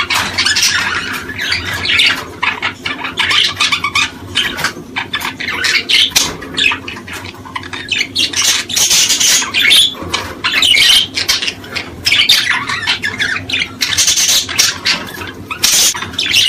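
Many small birds chirping and squawking at once in a dense, continuous chorus of rapid calls.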